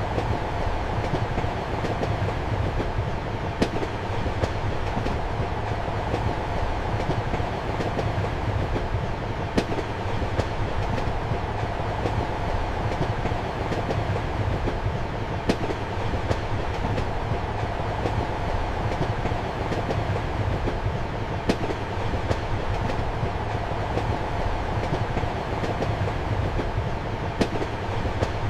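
Inside a passenger train compartment: the steady rumble and hum of the moving train, with the clack of wheels over rail joints, a sharp clack about every six seconds and fainter ones between.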